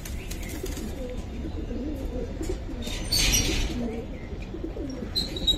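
Domestic pigeons cooing, several overlapping calls, with a brief rustling noise about three seconds in.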